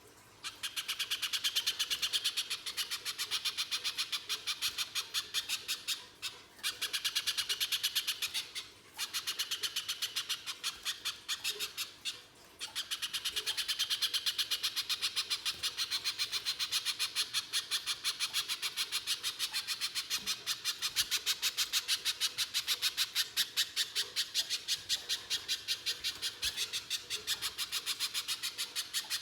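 Little spiderhunter (pijantung pisang) calling on and on: a fast run of sharp, high, harsh notes, several a second, broken by a few short pauses in the first half and unbroken after that.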